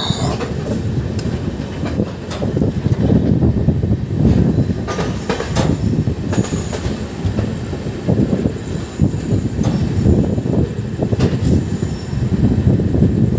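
Sleeper-class passenger coach running on the rails: a steady rumble of the wheels, with scattered clacks as they pass over rail joints and points.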